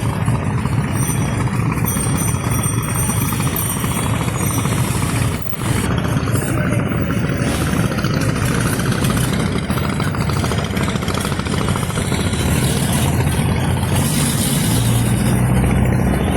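Steady motor traffic noise, engines running without a break, with a brief dip about five and a half seconds in.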